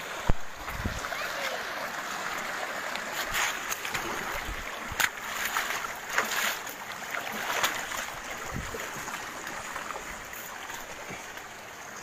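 Waterfall water rushing steadily, with several sharp knocks and bumps, the loudest just after the start.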